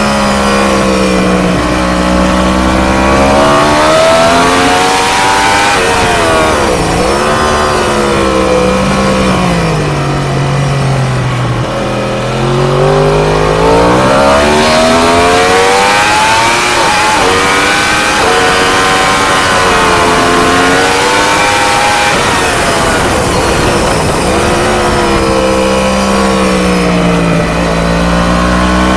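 ST1000-class 1000 cc racing motorcycle heard onboard at speed: the engine revs climb and fall through gear changes, dropping lowest under braking into slower corners before pulling hard again, over constant wind rush.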